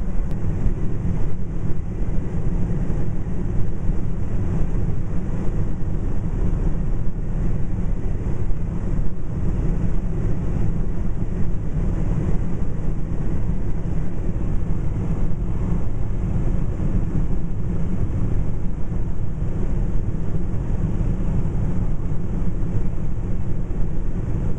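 Steady low rumble of road, tyre and engine noise inside a pickup truck's cab cruising at highway speed.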